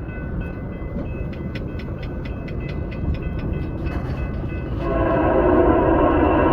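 Norfolk Southern freight train rumbling, with a rapid, regular clicking at about four or five a second; about five seconds in the locomotive horn starts sounding, loud and steady.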